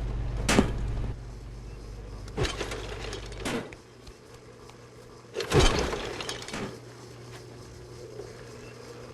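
A series of sudden bangs and crashes, the loudest a little past the middle, over a low hum that cuts out partway through.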